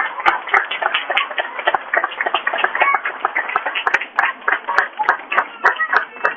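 Audience applauding, a dense patter of many hands clapping, with some voices mixed in.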